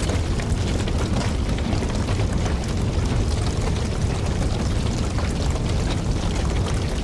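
Wood fire burning with a steady low rumble, crackling and popping many times throughout.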